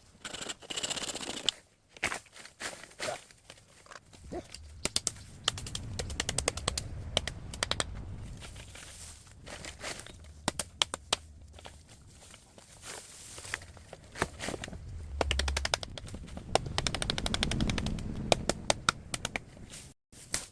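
Bamboo cracking and snapping as it is broken up and cleared by hand: bursts of rapid sharp cracks, some dense runs, over rustling and handling noise.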